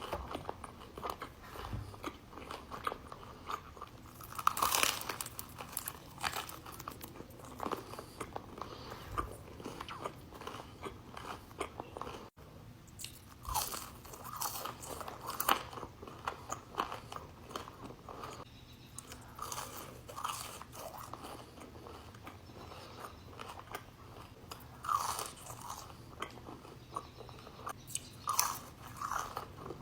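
Mouth sounds of someone eating crunchy food: irregular crisp bites and chewing crunches, with a brief break about twelve seconds in.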